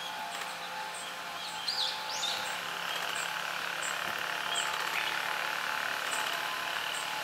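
Small birds calling: thin, high chirps with quick pitch sweeps, a short cluster about two seconds in and a couple more near five seconds. Very faint, very high peeps recur about once a second over a steady background hiss.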